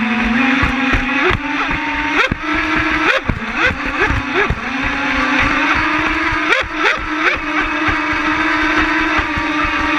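Twin 5200kv brushless electric motors of a Genesis 72 RC catamaran running at speed: a steady whine that creeps up in pitch, with brief upward flicks in pitch and many short knocks and slaps from the hull on the water.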